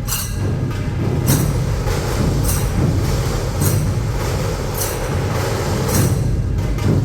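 Dhol tasha ensemble drumming: many dhol drums in a dense, continuous roll, with a sharp accented stroke about every second and a bit.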